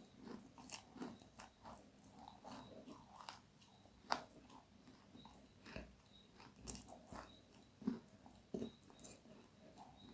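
Close-miked biting and chewing of crunchy food: irregular sharp crunches and crackles, the loudest about four seconds in.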